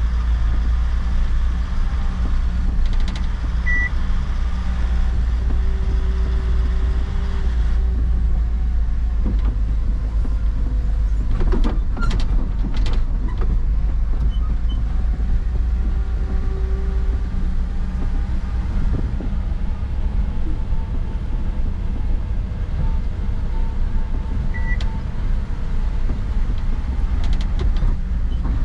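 Truck engine running steadily with a deep low rumble while driving. A short high beep sounds twice, about four seconds in and near the end, and a few knocks come about twelve seconds in.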